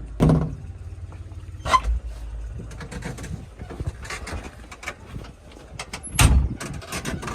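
A vehicle engine running with a steady low hum, broken by three loud knocks or bangs: one just after the start, one a little under two seconds in and one past six seconds.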